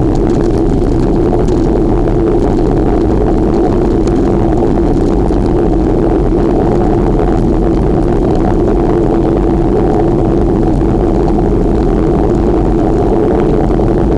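Steady, unbroken rushing noise of riding a bicycle: wind and road noise on the microphone.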